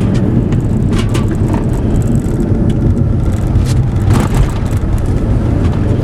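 Car on the move: steady, loud engine and road noise heard from inside the cabin, with a few scattered clicks and rattles.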